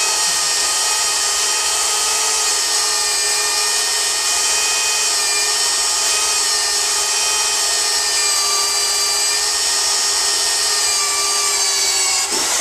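Corded drills driving hole saws into a wooden board: a steady motor whine with the teeth grinding through the wood under heavy pressure, and a brief dip in the sound near the end.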